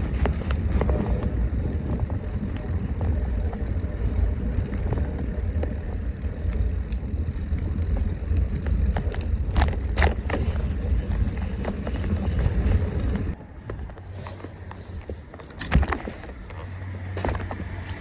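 Rumbling wind and road noise on the microphone of a bicycle being ridden, with a few sharp clicks, dropping much quieter about thirteen seconds in.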